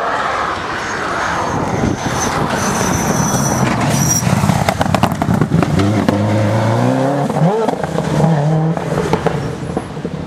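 Rally car passing at speed on a stage. Its engine note rises and falls through gear changes in the second half, after a run of sharp cracks.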